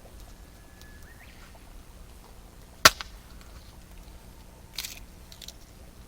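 Campfire burning with one loud, sharp pop about three seconds in and a few softer crackles near the end.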